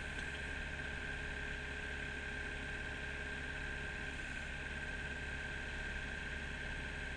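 Kubota mini excavator's diesel engine running steadily, with a steady high whine over a low rumble.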